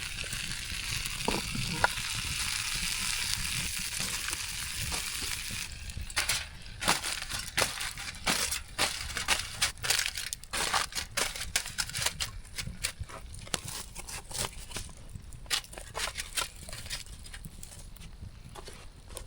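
Chicken drumsticks sizzling in a pan over a campfire, a steady hiss that cuts off suddenly about six seconds in. After that comes a dense run of irregular crackles and crunches.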